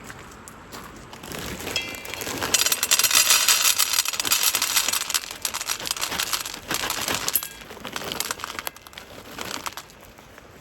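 A dense crinkling, crackling noise that builds, is loudest about three seconds in, and dies away near the end.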